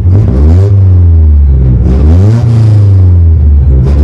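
Race-prepared Toyota AE86 Trueno's engine revved from inside the cabin, loud: the throttle is blipped three times, the engine climbing and dropping back to idle each time.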